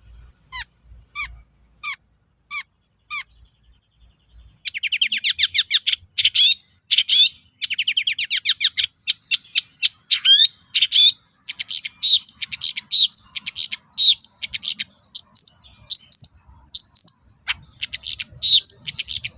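Long-tailed shrike singing. It starts with a string of sharp, separate calls about twice a second, then after a short pause gives a fast rattling chatter that runs into a varied, mimicking song of chirps and whistles.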